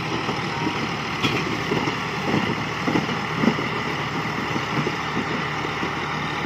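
Tractor engine running steadily, with a few brief louder surges in the first half.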